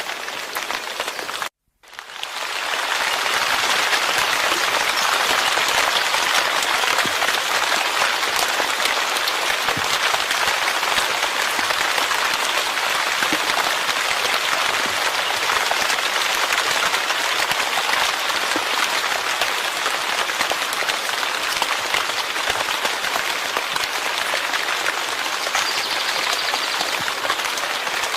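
Steady rain: a dense, even patter of many drops. About a second and a half in, the sound cuts out briefly and then fades back up.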